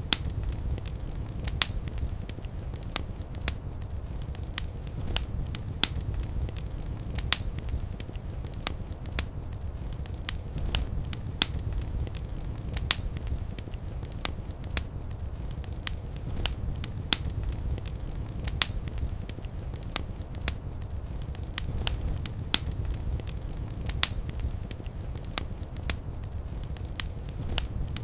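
Wood fire crackling: irregular sharp pops and snaps, several a second, over a steady low rumble of burning flames.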